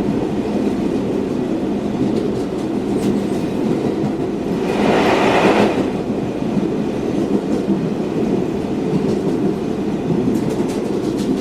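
NYC subway train running between stations, heard from inside the car: a steady rumble, a short louder hiss-like surge about five seconds in, and a few sharp clicks near the end.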